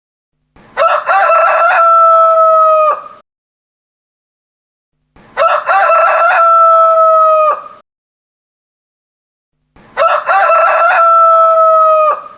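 Rooster crowing three times, about four and a half seconds apart, each crow alike: a few short notes leading into a long held note that dips at the end. Dead silence between the crows.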